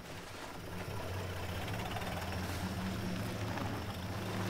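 Vintage car's engine idling steadily, a low even hum.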